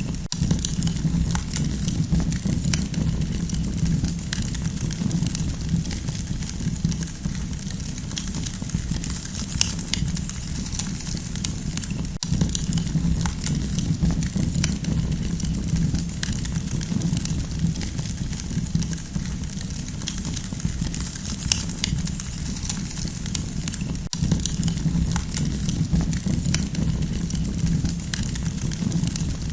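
Campfire burning, with continual irregular crackles and small pops over a steady low rumble.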